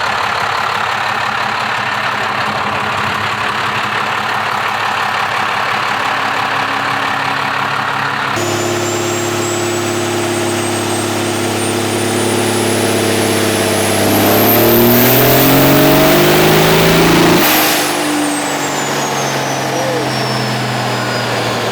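Diesel pickup engine on a chassis dyno making a pull. It runs steadily, then from a little past halfway the engine note and a high turbo whistle climb together to the loudest point. The throttle then closes suddenly, the engine drops back and the turbo whistle falls away.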